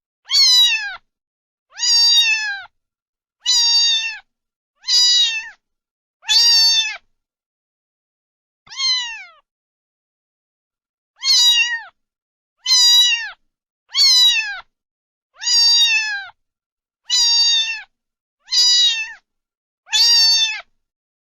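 Domestic cat meowing over and over, about thirteen separate meows, each under a second and falling in pitch at the end, with a longer pause near the middle.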